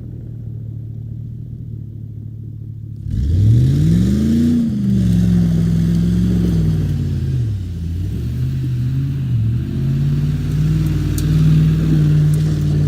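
Chevrolet Tahoe V8 exhaust through a Cherry Bomb Extreme single-baffle muffler and a 4-inch tailpipe, giving a throaty note. It runs at a low steady note, then about three seconds in gets suddenly louder and revs up. The pitch rises and falls a couple of times, then it holds a steady higher note near the end.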